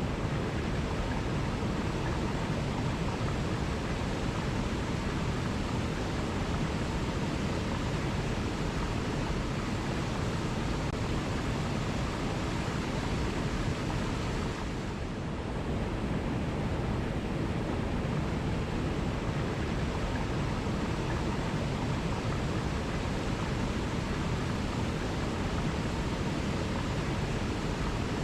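Steady rushing of running water, a waterfall or fast stream, an even roar with no birdsong standing out. The level dips briefly about halfway and comes straight back.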